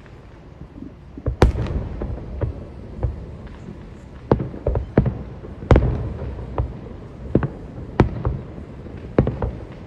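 Fireworks shells bursting in a quick series of about a dozen sharp bangs, each followed by a low rumble, starting about a second in. The two loudest come about a second and a half and about six seconds in.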